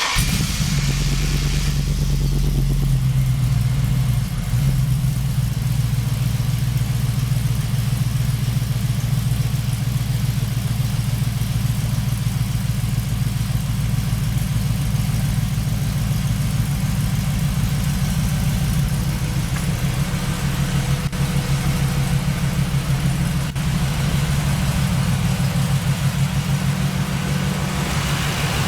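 LS1 5.7-litre V8 swapped into a Jeep Wrangler JK, running at idle just after its first start. The idle note changes about three seconds in, then runs on steadily.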